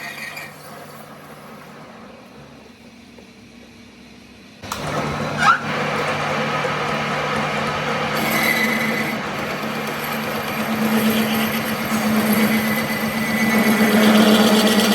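Workshop machinery: a low hum, then a machine starts suddenly a third of the way in and runs with a steady low drone under a noisy rattle, growing louder toward the end.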